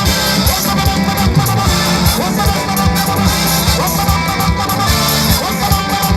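Loud live praise band music with guitar and a steady heavy beat.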